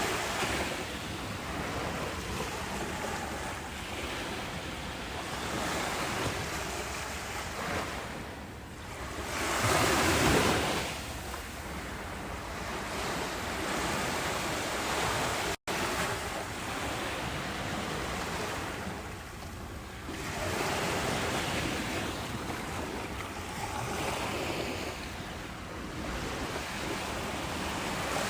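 Ocean waves washing ashore: a continuous rush of surf that swells and ebbs every few seconds, loudest about ten seconds in, with a split-second dropout about halfway through.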